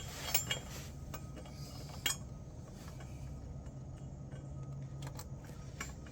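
Scattered light metallic clinks and taps from tools and metal parts being handled, the sharpest about two seconds in, over a low steady hum.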